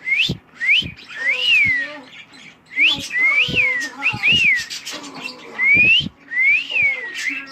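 Cockatiel whistling a series of about ten short, clear notes, some sliding upward and others rising and falling in an arch.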